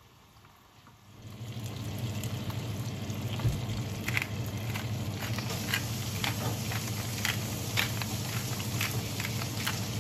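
Salmon fillets frying in oil in a pan: a steady sizzle with scattered crackling pops. It is faint at first and swells about a second in as the lid comes off the pan.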